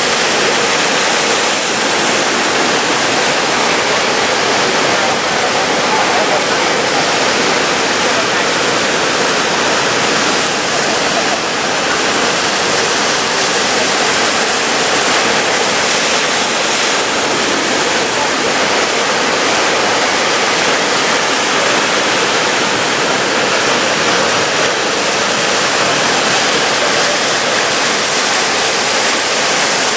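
Heavy ocean surf: a loud, steady rush of breaking waves.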